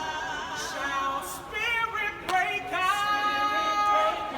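Gospel singing without instruments, voices holding long, wavering notes.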